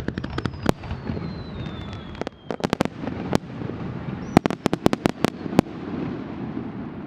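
Aerial fireworks going off: a rapid run of sharp bangs and crackles in two clusters, the first about two and a half seconds in and the second in the middle, with a thin falling whistle in the first two seconds.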